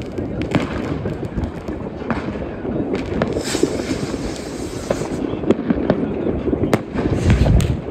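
Many consumer fireworks and firecrackers going off at once: a dense, continuous din of bangs and pops, with a spell of hissing crackle in the middle and a heavy boom near the end.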